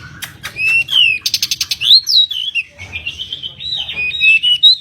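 Pied bushchat singing a fast, varied song of whistled notes that slide up and down, broken by a quick rattling run of clicks about a second in.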